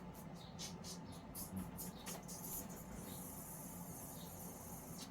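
Small containers of mica powder being picked up and handled: a run of light clicks and taps, then a soft rustling hiss.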